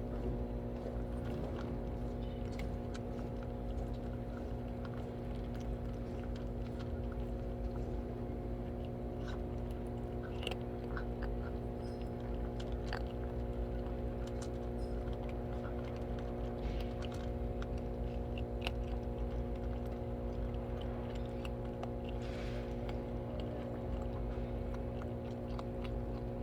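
Several cats chewing and eating their food, with scattered small crunches and clicks. A steady hum runs underneath.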